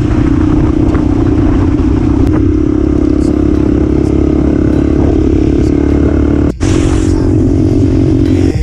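Motocross dirt bike engine running loudly at fairly steady revs, with faint clatter, cutting out briefly about six and a half seconds in.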